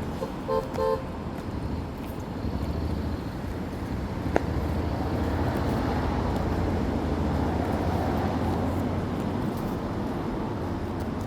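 Steady road traffic rumbling past. A car horn gives two short toots in the first second. A single sharp click comes a little before the middle.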